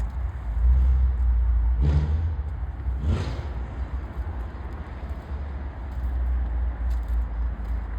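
A car running with a steady low rumble, with two brief whooshes about two and three seconds in.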